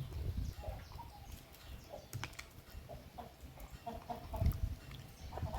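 Chickens clucking, a few short clucks coming closer together near the end, over a low rumble.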